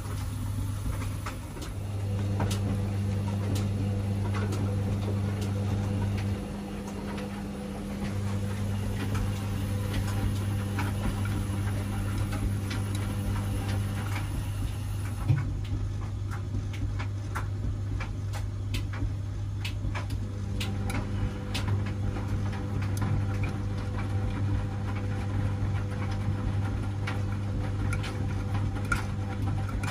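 Washing machine running a wash cycle: the drum motor hums steadily, stops for about two seconds and starts up again, with scattered light clicks and ticks.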